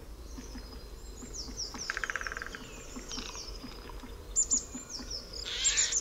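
Wild birds calling: repeated thin, high, falling notes, a short rapid trill about two seconds in, and a louder harsh burst of calls near the end.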